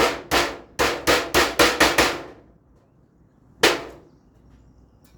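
Hammer driving nails into a galvanized iron roofing sheet, a quick run of about eight blows with a short metallic ring after each, then a pause and one more blow.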